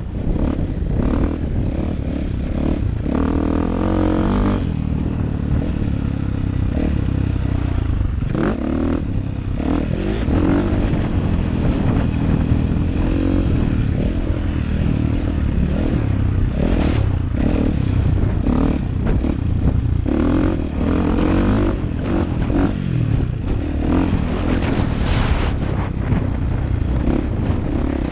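KTM 450 SX-F four-stroke single-cylinder motocross engine, its pitch rising and falling again and again as the throttle is worked, with a steady low rumble and scattered clatter underneath.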